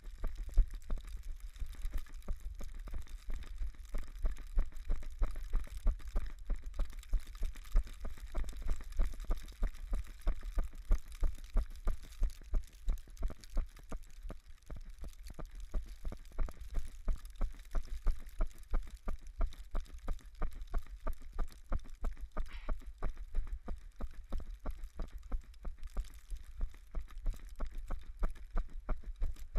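Running footsteps on snow: steady, rhythmic low thumps, about three a second, over a faint hiss.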